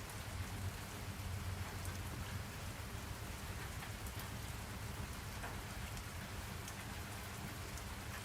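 Steady rain falling, with scattered drop ticks over a low, even rumble.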